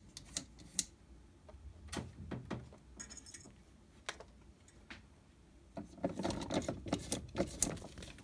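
A cat batting at a dishwasher's plastic spray arm, spinning it with scattered clicks and knocks. A busier stretch of rattling comes about six seconds in.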